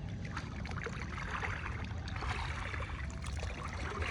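Sea water sloshing and lapping around a person wading neck-deep, with small splashes and a low rumble from water and wind on the microphone.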